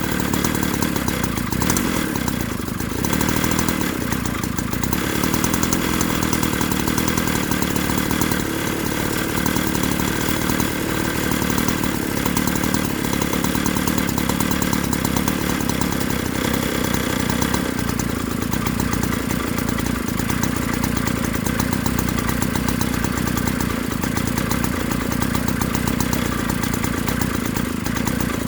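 A 49cc two-stroke pocket bike engine running steadily at an even speed for the whole stretch, with no clear revs or stops.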